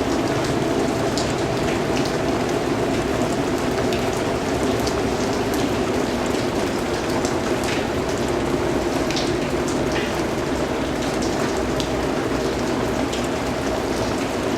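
Steady rain falling, with a dense hiss and many scattered individual drop ticks.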